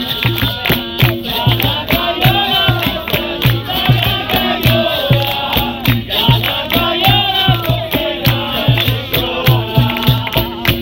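Capoeira roda music: a group of voices singing a chant over a steady drum beat and the repeating two-note twang of berimbaus.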